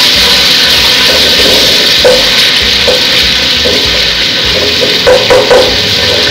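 Garlic and ginger paste sizzling steadily as it fries in hot oil in a metal pot, stirred with a wooden spoon that makes a few short strokes along the way.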